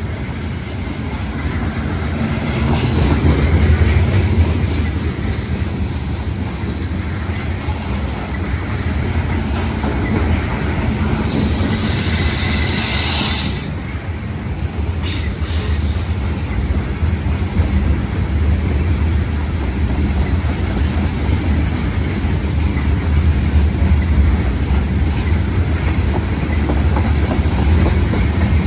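CSX mixed freight train's cars rolling past with a steady low rumble and clatter of wheels on the rails. About eleven seconds in, a loud high-pitched wheel squeal lasts a couple of seconds, with a short squeal again a little later.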